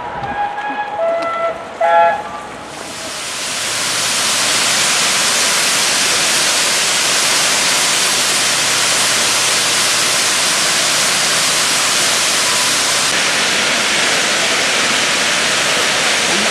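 Steam locomotive whistle sounding in a few short blasts, then from about three seconds in a loud, steady hiss of escaping steam.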